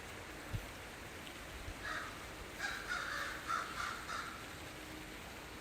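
Several short bird caws in a row over a steady low hiss, with a soft thump about half a second in.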